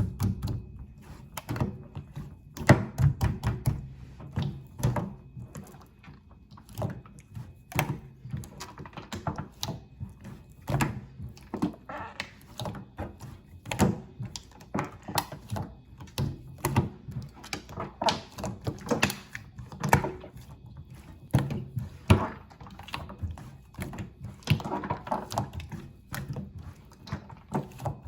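Hands pressing, poking and folding a soft, watery slime, giving an irregular run of squelchy clicks, pops and soft thuds.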